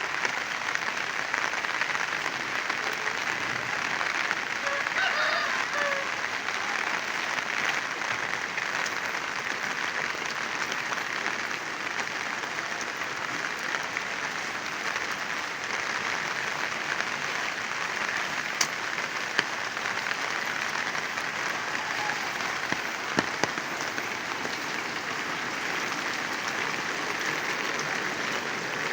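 Heavy rain falling steadily, a dense even hiss of drops, with a few sharper single drop strikes standing out.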